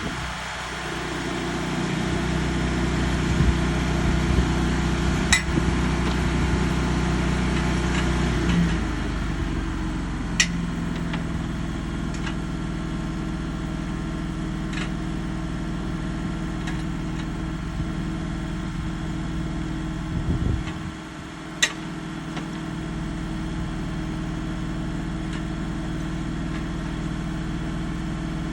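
An engine running steadily, its pitch stepping a few times, with a few sharp clicks over it.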